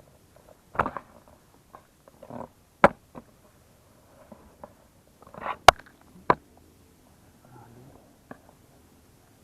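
Hands working in wet mud: a few short squelches and several sharp slaps or knocks, spaced irregularly over several seconds.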